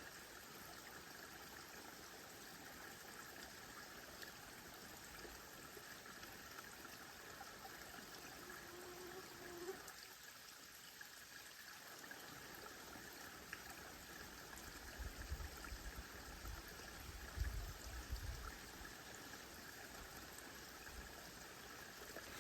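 Waterfall rushing steadily and faintly, with a few low thumps on the microphone about two-thirds of the way through.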